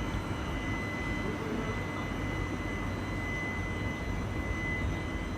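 Passenger train running, heard from on board: a steady rumble with a constant high whine.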